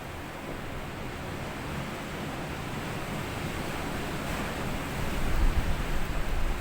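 Sea waves washing up on a sandy beach, a steady surf hiss that builds gradually, growing louder and deeper after about five seconds as a wave rolls in.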